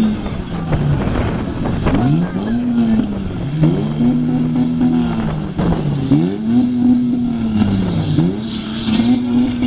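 Demolition derby cars' engines revving hard, each rise held briefly and then dropping off, about every two seconds, as the cars reverse and ram each other; a few sharp knocks of the cars hitting.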